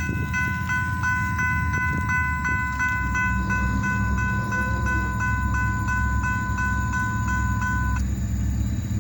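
Railroad warning bell ringing fast and steadily, about three strokes a second, over the low rumble of the approaching SD40-2 diesel locomotives. The bell stops abruptly about eight seconds in, while the locomotive rumble carries on.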